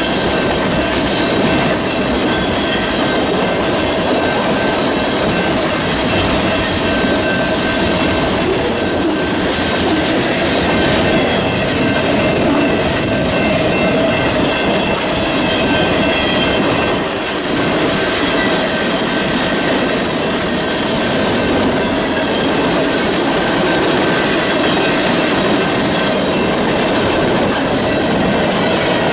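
Freight train cars rolling past, steel wheels clicking over the rail joints, with a thin, steady wheel squeal above the rolling noise.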